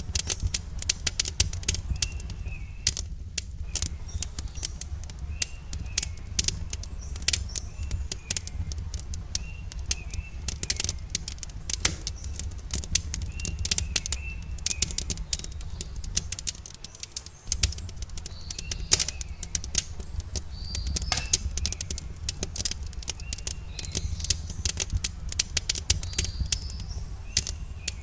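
Campfire crackling with a constant stream of sharp snaps and pops over a steady low rumble, while small birds chirp again and again.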